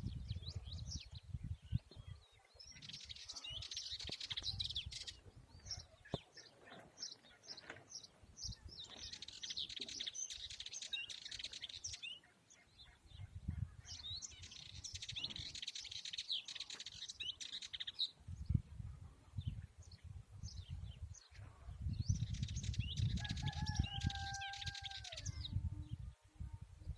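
European goldfinch singing in bursts of a few seconds of rapid, twittering high notes, with pauses between them. A low rumble comes and goes underneath, and near the end a short steady tone falls off in pitch.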